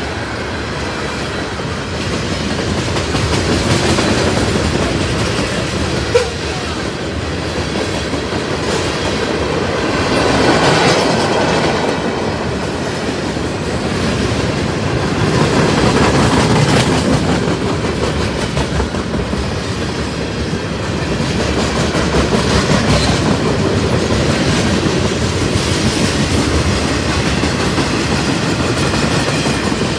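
A passing train's cars rolling by on the track, wheels clattering over the rails in a steady rumble that swells and eases every few seconds. There is one sharp click about six seconds in.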